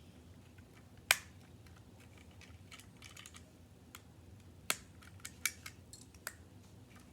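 LEGO bricks handled and pressed together: a scatter of sharp plastic clicks. The loudest comes about a second in, and several more come in the second half.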